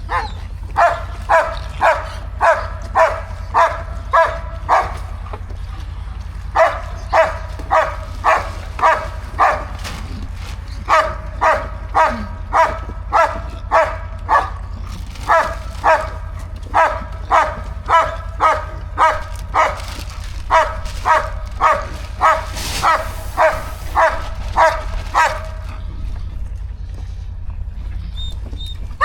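A dog barking over and over, about two barks a second, in long runs with a few short pauses.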